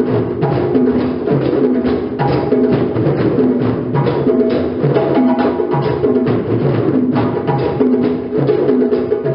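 Group of djembe drums played together in a steady, repeating rhythm: dense sharp strikes over a recurring pattern of lower drum tones.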